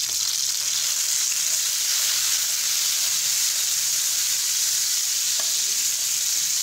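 Chopped tomato and green chillies sizzling in hot cooking oil with fried onions in a frying pan, stirred with a spoon: a steady hiss.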